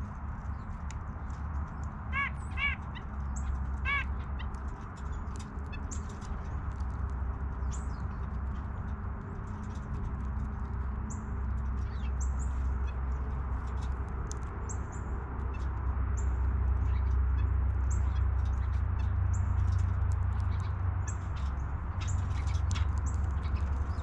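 Three short, harsh bird calls about two to four seconds in, each rising then falling in pitch. Many brief high chirps from small birds follow through the rest, over a steady low rumble that grows louder in the second half.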